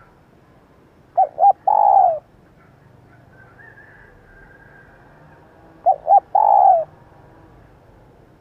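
Female spotted dove cooing: two identical calls about four and a half seconds apart, each two short notes followed by one longer, falling note.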